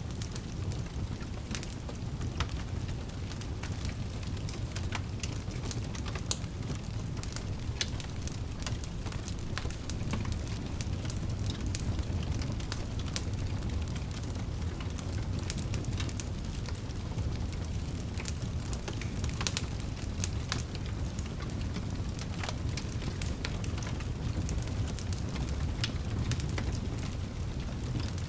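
Wood fire burning steadily with a low rumble and frequent sharp crackles and pops at irregular intervals.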